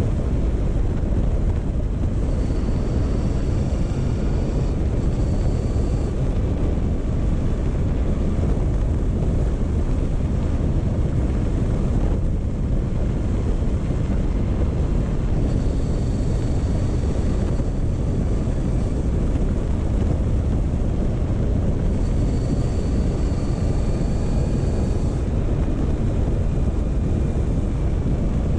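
Motorcycle engine running steadily at a slow cruising pace, under heavy wind rumble on the microphone. A faint high whine comes and goes three times.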